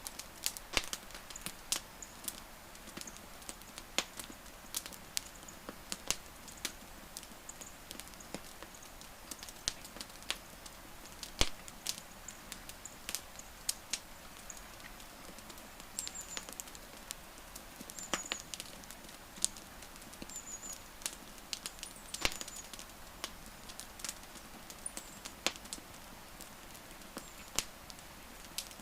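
Wood fire crackling: irregular sharp pops and snaps, a few a second and of varying loudness, over a low steady hiss of burning. A few faint, short, high chirps come now and then in the second half.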